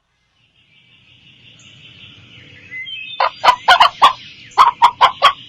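Domestic chickens clucking: after a faint farmyard background fades in about a second in, a series of short, loud clucks comes about three seconds in, three or four a second.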